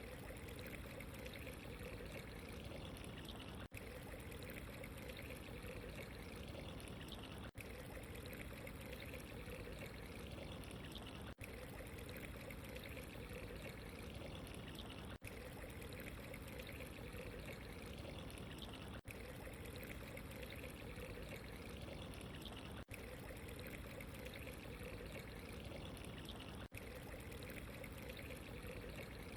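Steady running, pouring water, like a small stream or trickling fountain, with a very brief dip in the sound about every four seconds.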